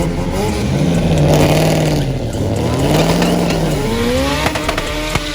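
A car engine revving hard. Its pitch climbs and falls back three times, and there are a few sharp pops near the end.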